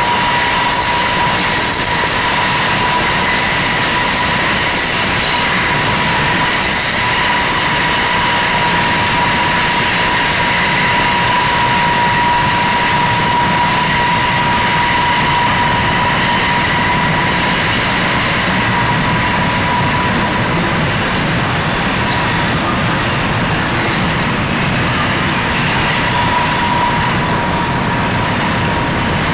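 Freight cars of a Union Pacific manifest train rolling along the track, a loud, steady roar with a thin whine held throughout.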